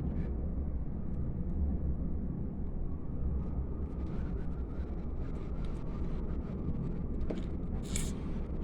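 Blizzard wind of about 28 metres per second blowing in a steady low rumble, with a short hiss near the end.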